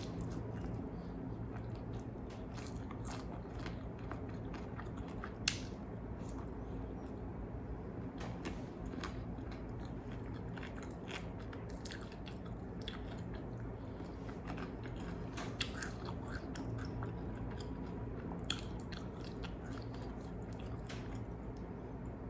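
Close-miked chewing and biting of crispy fried chicken wings: scattered wet crunches and mouth sounds, with one sharp crunch about five seconds in the loudest, over a steady low hum.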